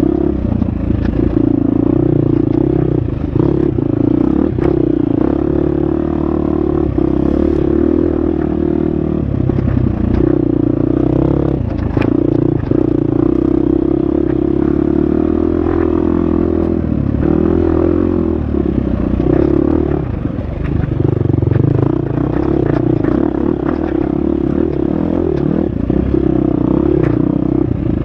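Husqvarna FX 350 dirt bike's four-stroke single-cylinder engine running hard on a trail, its pitch rising and falling with the throttle and dropping off briefly a few times for shifts and corners. Scattered clatter and knocks come from the bike working over rough ground.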